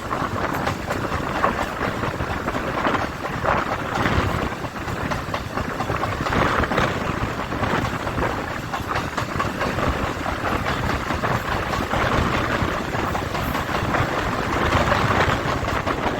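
Electric suburban local train running: a steady rumble and rattle of the wheels and carriages, with many small knocks and a gentle swell and fall in loudness.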